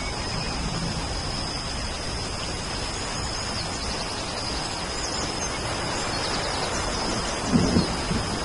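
Steady rain falling, with faint bird chirps high up from about three to six seconds in, and a short low rumble of thunder near the end.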